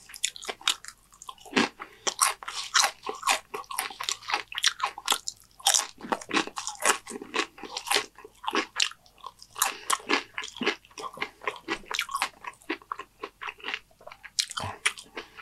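Close-up chewing of Dorito nacho chips: a fast, uneven run of crisp crunches as the chips are bitten and chewed, with a couple of brief pauses.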